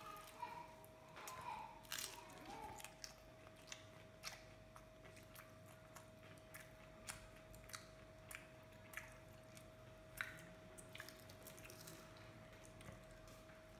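Quiet chewing and biting of a fried mince samosa, with scattered small crunches and mouth clicks. A faint steady hum runs underneath.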